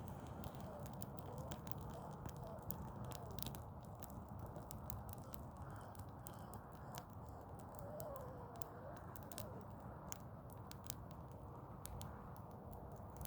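Burning Douglas fir Christmas tree crackling: irregular sharp pops and snaps over a steady low rumble.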